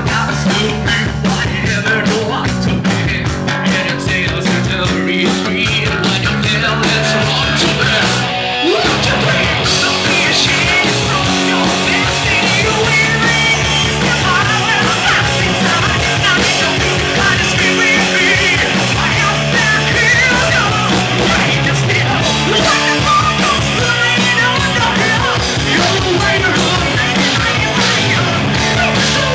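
Heavy metal band playing live: distorted electric guitars, bass and drums at full volume, with a brief break about eight seconds in.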